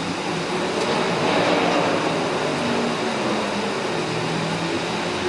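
Steady running noise of a moving vehicle, an even rush with a faint engine hum underneath.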